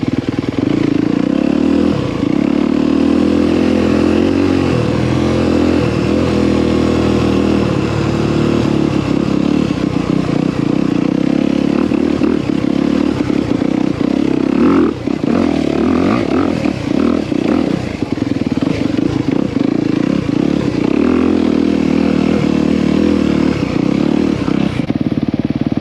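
Dirt bike engine running steadily while being ridden along a trail, its pitch shifting a little with the throttle. About halfway through comes a stretch of short knocks and rattles.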